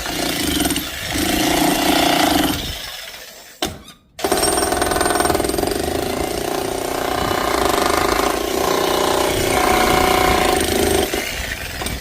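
Electric demolition hammer chipping. It runs steadily, stops about three seconds in, starts again abruptly about a second later, and dies away near the end.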